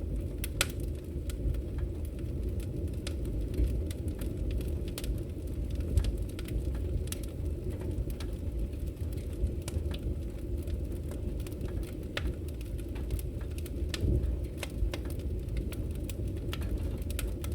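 Log fire in a fireplace crackling, with irregular sharp pops and snaps over a steady low rumble.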